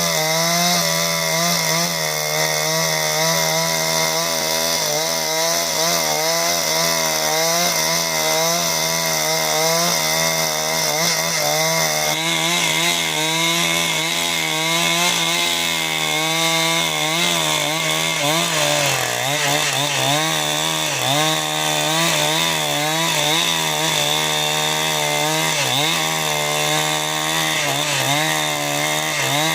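Two-stroke chainsaw running at high revs while cutting timber lengthwise into beams, the engine note steady and wavering. In the second half the pitch dips again and again as the chain bites into the wood under load.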